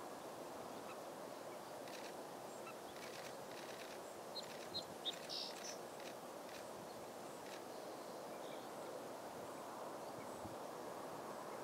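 Steady outdoor background noise, with a quick cluster of short, high bird calls about four and a half to five and a half seconds in.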